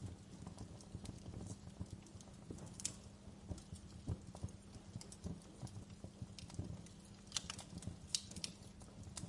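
Wood fire crackling in a fireplace: a steady low rumble of flames under irregular soft pops and clicks, with sharper snaps about three seconds in and twice near the end.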